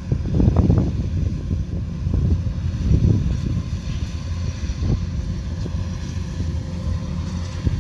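Kubota combine harvester's diesel engine running steadily, a low rumble with wind gusting on the microphone.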